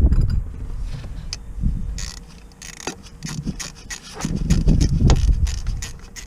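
A run of quick small clicks and knocks, as of tools and metal parts being handled, over a low rumble that rises and falls.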